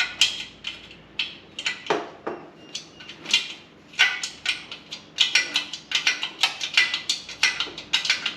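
Hand tools clinking and tapping on motorcycle metal parts: a steady run of sharp, irregular metallic clinks, several a second.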